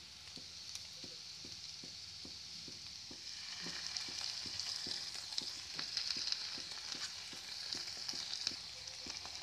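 Julienned carrots, capsicum and onion sizzling in oil in a hot wok, with a steady hiss and scattered small crackles. The sizzle grows louder about three and a half seconds in.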